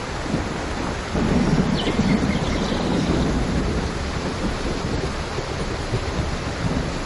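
Steady heavy rain, with a low rumble of thunder swelling about a second in and fading after a couple of seconds.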